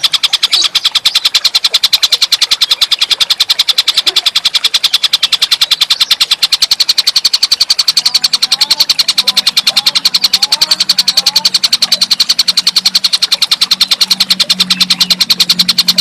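Tengkek buto call: a rapid, evenly pulsed harsh chatter that repeats without a break. A low hum comes in during the second half and is loudest near the end.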